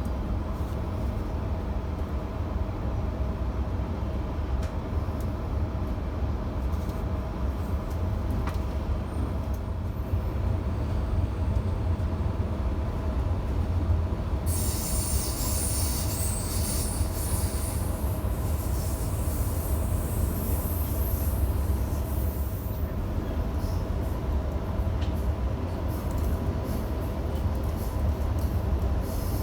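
Electric passenger train running between stations, heard from on board: a steady low rumble with a motor hum. About halfway through, a high hissing squeal from the wheels on the rails comes in for several seconds and then fades.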